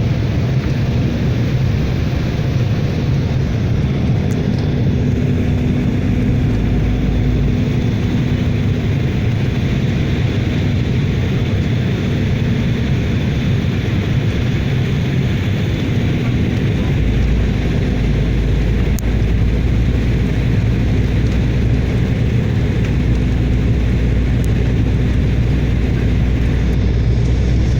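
Steady drone of a light propeller aircraft's engine and propeller in flight, a continuous low hum with a held low tone.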